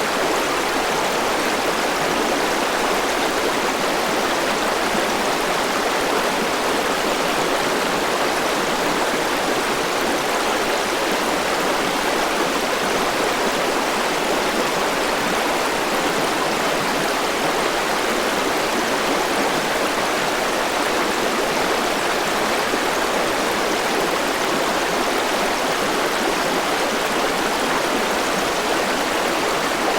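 Forest river flowing, a steady rushing of water with no breaks or changes.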